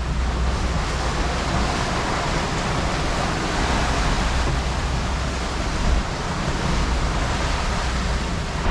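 Steady rush of wind and sea water along a sailing yacht under way at sea, with a low rumble underneath.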